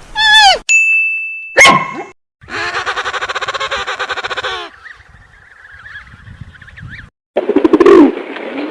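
A run of short, different animal calls one after another. They include an arching call at the start, a buzzy, rapidly pulsing call lasting about two seconds, faint chirps, and a busier call near the end.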